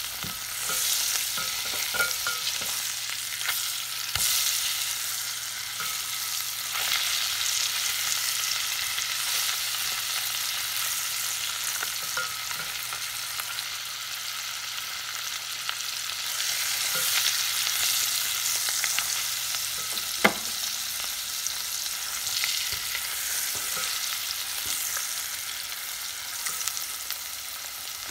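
Tuna steak searing in butter in a coated pot, a steady sizzle that swells and eases, with a slotted spatula scraping and knocking against the pot; one sharp knock about twenty seconds in is the loudest sound.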